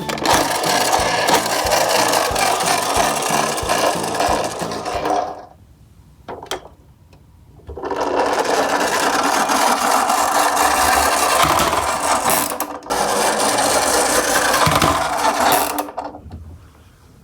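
Toy garbage truck minicar's wheels and mechanism rasping as it runs, in long stretches with a pause of about two seconds in the middle.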